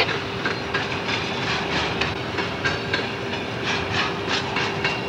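Freight train's covered hopper cars rolling past, steel wheels clicking over the rail joints; the clicks come irregularly and thin out as the last car goes by.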